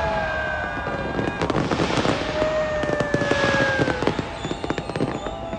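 Fireworks: long whistles that fall slowly in pitch, over dense crackling and popping and bursts of hiss as the shells go up and break.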